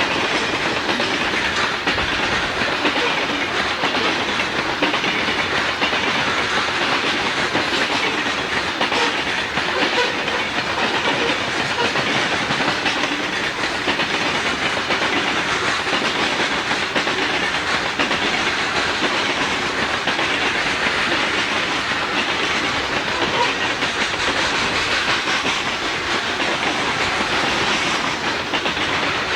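Freight train cars rolling past at steady speed: a continuous clatter and rumble of steel wheels on the rail joints.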